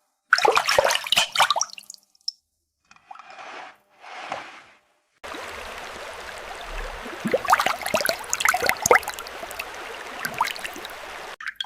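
Water splashing and dripping in a small plastic toy playset in short separate bursts, then, about five seconds in, a steady stream of running water with many small plastic clicks and taps over it.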